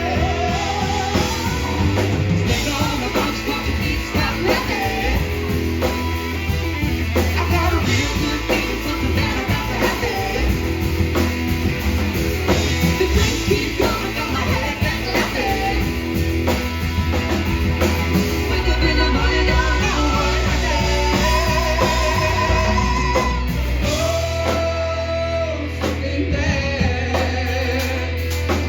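Live rock band playing a song: a singer over electric guitar, bass and drum kit.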